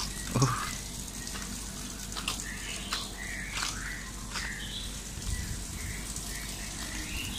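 Birds chirping with short, repeated calls over a steady low hum.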